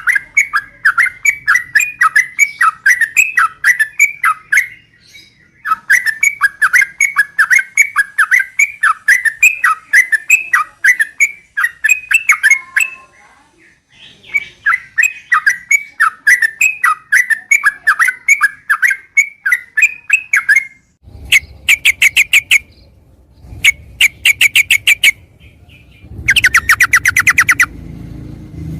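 Yellow-vented bulbul (trucukan) song: long runs of quick, chattering notes with short breaks, changing in the last several seconds to faster, rattling trills.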